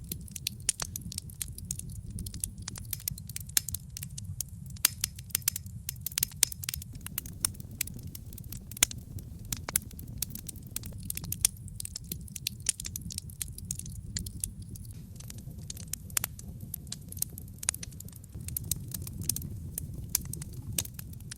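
Wood logs burning in a fireplace, crackling and popping irregularly over a low steady rumble of the flames.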